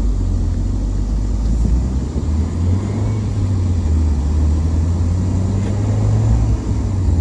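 1993 Mazda Miata's 1.6-litre four-cylinder engine running steadily with a low, even hum, just revived after sitting for about a year.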